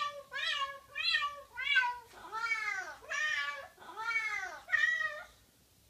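A cat meowing eight times in a row: four short meows about half a second apart, then four longer, arching meows.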